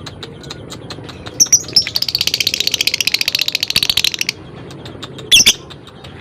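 Lovebird calling: a few short ticking notes, then a rapid chattering trill of high chirps lasting about three seconds (the 'ngekek' trill), and a single loud shrill chirp near the end.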